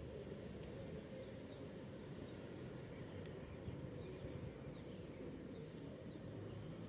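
Small birds chirping faintly: a handful of short, high, falling chirps, spread out over a few seconds above a steady low rumble of background noise.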